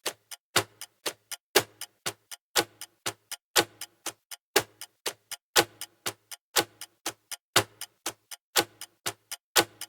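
Clock-style ticking sound effect of a countdown timer: a steady rhythm of sharp ticks, a louder tick once a second with quieter ticks between.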